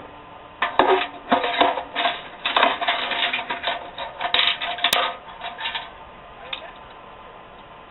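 A handful of loose steel 9/16 nuts clinking and clattering against each other in a dense run lasting about five seconds, then a few single clinks near the end.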